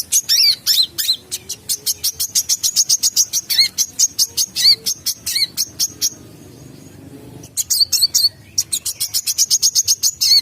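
Kolibri kelapa (brown-throated sunbird) singing hard: a fast run of sharp, high chirps and short falling whistles, broken by a pause of about a second and a half near the middle before the chirping starts again. It is the loud, busy song used as a lure call to draw in wild birds of its kind.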